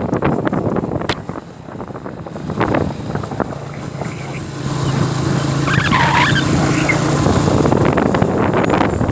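Motorbike riding along: the engine running with a steady low hum through the middle, under road and wind noise on the microphone.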